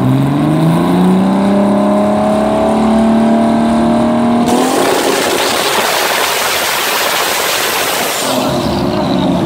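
Tuned car engine revved hard, its pitch climbing steadily for about four and a half seconds. It then gives way to a loud, harsh blare for about four seconds before the revs drop back near the end.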